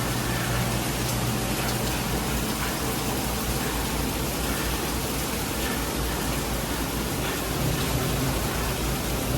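Heavy rain falling steadily, a dense even hiss with scattered drop hits.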